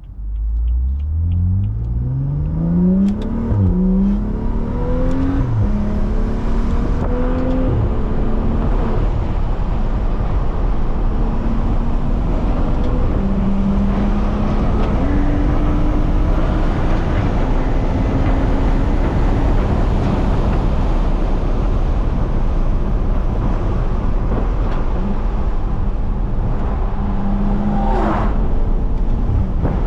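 BMW 335i's turbocharged inline-six with a catless exhaust, heard from inside the car. It accelerates hard in the first few seconds, the revs climbing until an upshift drops them, then it cruises with smaller rises and falls in revs as it shifts, over steady road noise. A brief falling whine comes near the end.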